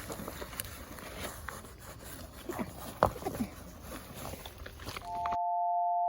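Outdoor ambience with a steady hiss, small rustles and clicks, and a few brief rising chirps about two and a half to three and a half seconds in. About five seconds in, a glockenspiel-like mallet melody starts and the outdoor sound cuts off abruptly.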